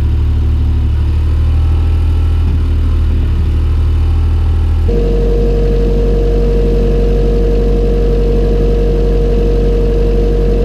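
Heavy equipment engine running steadily. About five seconds in its note changes, and a steady whine joins it.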